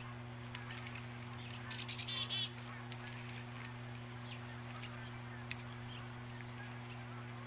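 Wild birds calling around an outdoor nest camera: scattered short chirps and, about two seconds in, a quick run of loud repeated call notes, over the camera microphone's steady electrical hum.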